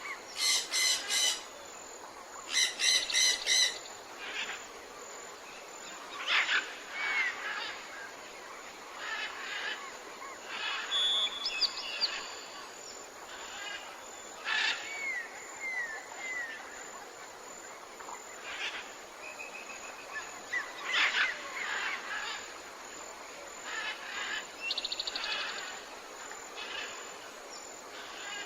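Tropical forest birds calling: harsh repeated squawks in the first few seconds, then scattered chirps, short falling whistles and a brief trill over a steady hiss of background noise.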